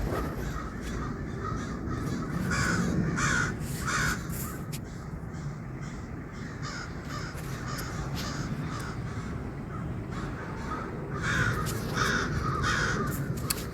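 A flock of crows cawing, with runs of short calls a few seconds in and again near the end, over a steady low background hum.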